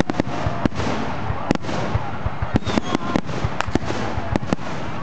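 Fireworks display: a quick, irregular series of sharp bangs and crackles over a continuous rumble and hiss of many shells going off.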